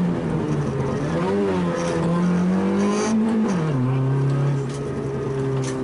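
Small 1000 cc rally car engine heard from inside the cabin, running at part throttle with its pitch dipping and climbing. A little over three seconds in the revs fall sharply, and the engine settles to a steady lower drone.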